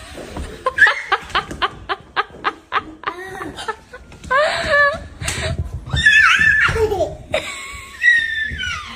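Hearty laughter. It starts as a quick run of short laughs, about four a second, then turns into longer high-pitched squealing laughs.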